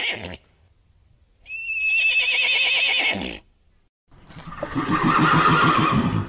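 Horse whinnying: the tail of one whinny, then a high, quavering whinny about a second and a half in that drops in pitch at the end. It is followed near the end by a lower, rougher horse call lasting a couple of seconds.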